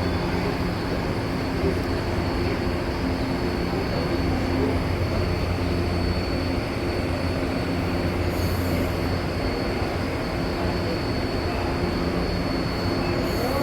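Electric commuter train of CPTM Line 11-Coral running on the track: a steady rumble with a low electrical hum and a faint high whine.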